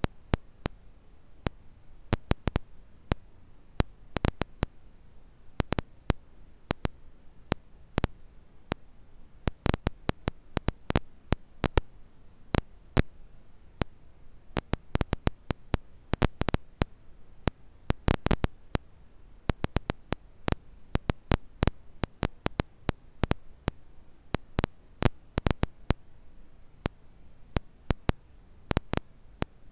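Campfire crackling: irregular sharp pops and snaps, some in quick clusters, over a faint steady hiss.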